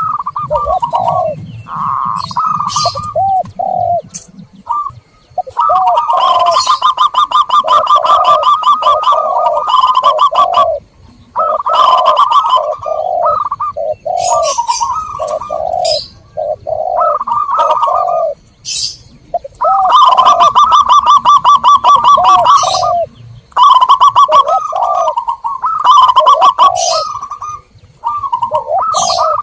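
Zebra doves and spotted doves cooing in repeated phrases, with runs of fast, high chirping notes over the coos several times. It is a dove lure recording, played to draw wild doves in to answer.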